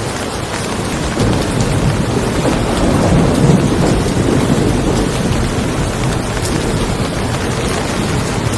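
Steady rain falling, with a roll of thunder that swells about a second in, peaks around the middle and fades away.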